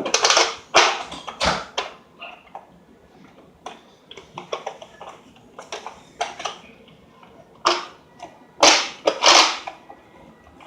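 A toy blaster and its packaging being handled: rustles and sharp plastic clicks. They come loudest in the first two seconds and again about eight to nine and a half seconds in, with lighter clicks in between.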